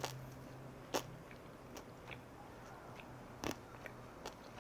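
Close-up chewing of seasoned skate salad, with a few sharp crunchy clicks, the loudest just after the start, about a second in and about three and a half seconds in, over a faint steady low hum.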